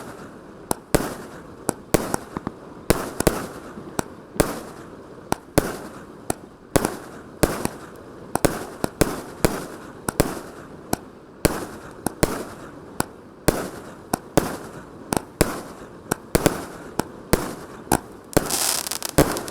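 A 1-inch, 34-shot round cake firework firing shot after shot: sharp bangs about two a second, with a longer burst of noise a little before the end.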